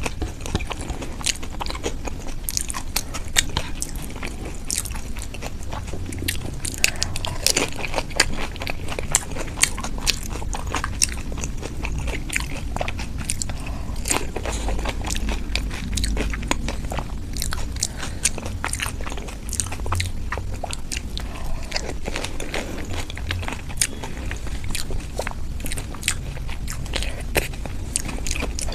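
A person eating close to the microphone: continual biting and chewing with many small crisp clicks and crackles.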